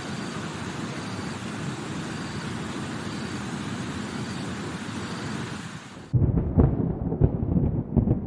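Steady rain hiss, then about six seconds in an abrupt change to loud rumbling thunder with several sharp cracks.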